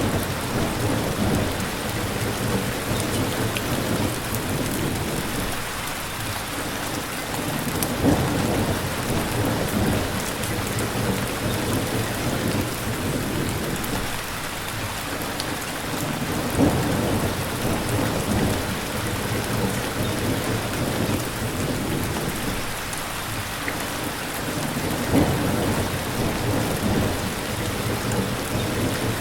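Steady heavy rain, with a low rumble swelling up every eight seconds or so.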